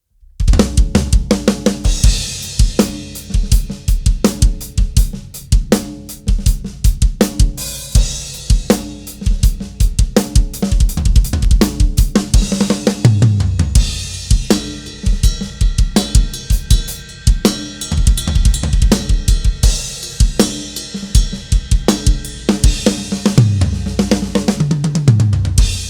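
Mapex Saturn V acoustic drum kit playing a steady groove, with kick, snare, hi-hat and cymbals, in a mixed recording with bass and guitars.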